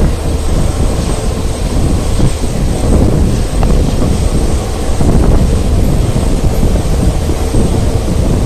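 Passenger train coach running, heard from on board: a loud, steady rumble of wheels on track mixed with wind noise.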